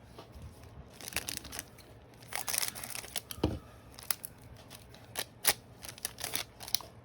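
Crinkling and tearing of a trading card pack's wrapper, with irregular sharp clicks and snaps of cards being handled.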